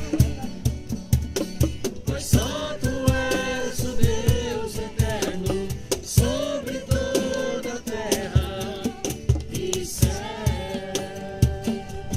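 Group singing a worship song with acoustic guitar and a steady drum beat.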